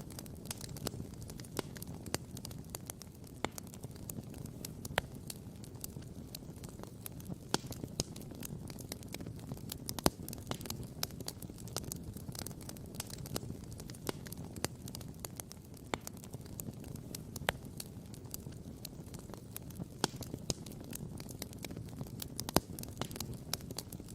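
Wood campfire crackling and popping: frequent irregular sharp pops, a few louder than the rest, over a steady low rumble.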